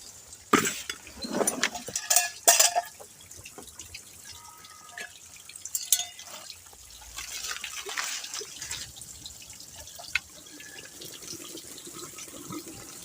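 Small waterfall splashing steadily, with a few sharp knocks and clatters in the first three seconds.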